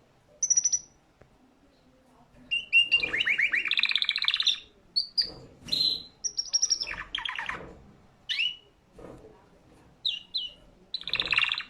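Domestic canary singing in separate phrases: rapid trills and short high whistled notes, with brief pauses between phrases.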